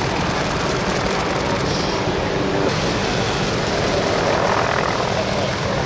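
A steady engine drone with a constant low hum, over a thick wash of wind and ocean noise.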